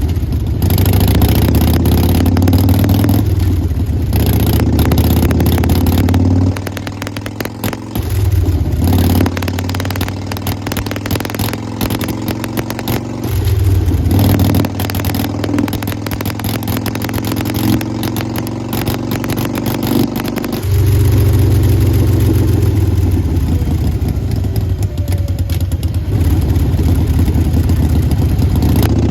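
Harley-Davidson Sportster XL1200X Forty-Eight's air-cooled 1200 cc V-twin running through Vance & Hines Big Radius exhaust pipes, idling and revved, with louder stretches alternating with quieter ones several times.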